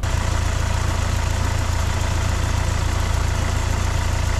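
Kia CRDi 16-valve diesel engine idling steadily with a strong low hum.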